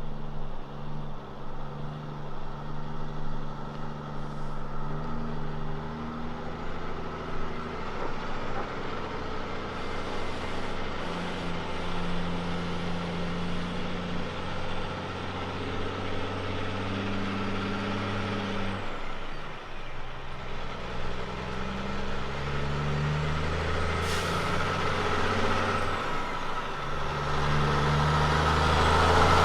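Heavy diesel engine of a road-train prime mover working through its gears, its note climbing and then dropping back at each gear change. It grows louder near the end.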